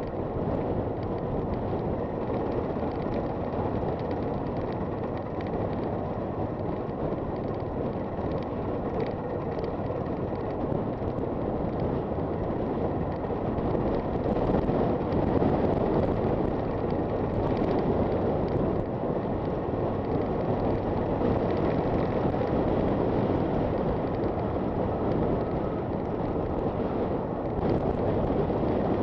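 Honda FT400 single-cylinder motorcycle riding along at steady speed, its engine running under a rush of wind on the microphone, getting a little louder about halfway through.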